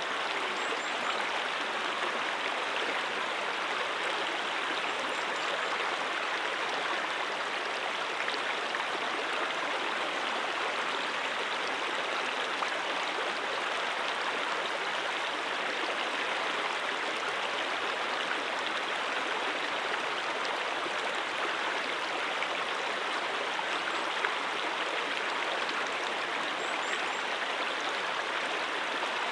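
Brook water running over rocks in a steady, even rush.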